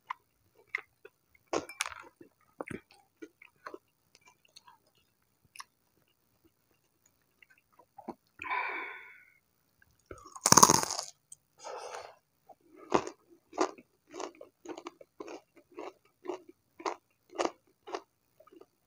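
Close-up mouth sounds of a man eating crispy batter-fried tempeh: a loud crunching bite about ten seconds in, then steady chewing at about two chews a second.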